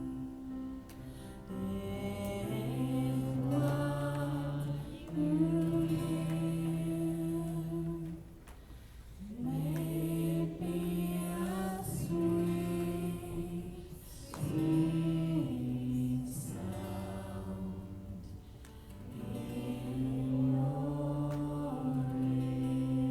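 Slow church worship music with singing: long held notes in phrases, with brief lulls about eight and eighteen seconds in.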